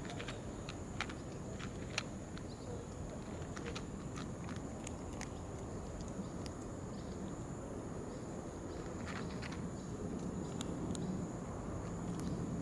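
Steady outdoor background rumble with scattered light clicks and taps, more of them in the first few seconds and again near the end, over a faint steady high-pitched whine.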